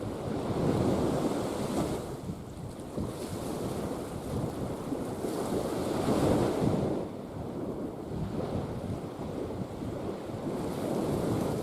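Sea waves washing, with wind buffeting the microphone, swelling about a second in and again around six seconds.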